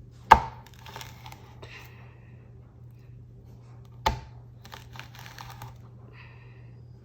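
A knife cutting a prickly pear cactus pad into strips on a cutting board: two sharp knocks of the blade hitting the board, about four seconds apart, with crisp crunching and tearing as it slices through the pad between them.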